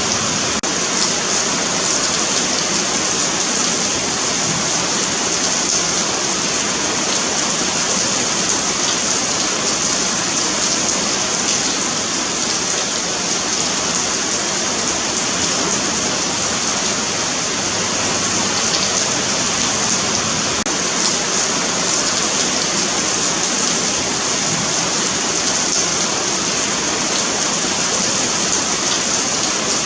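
Steady rain falling on a pavement, a continuous hiss with faint scattered drop ticks.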